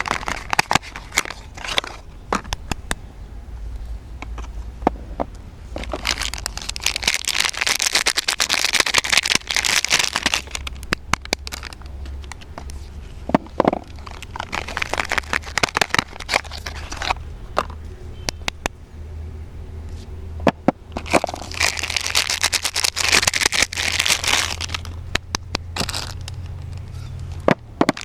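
Soap packaging crinkling and crackling as bars of soap are unwrapped by hand. Scattered sharp clicks and rustles run throughout, with two longer stretches of dense crinkling: one about a quarter of the way in and one about three-quarters through.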